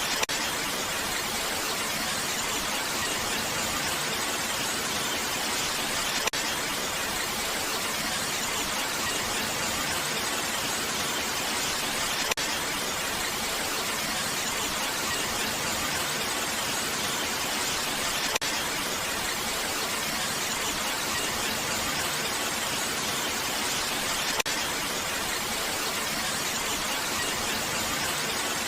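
Steady, even rain hiss with no drops or patter standing out, and a brief faint click about every six seconds.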